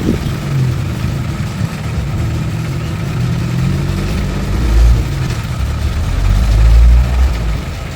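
Heavy diesel engine of earthmoving machinery running, with a louder low surge about five seconds in and another lasting about a second near seven seconds.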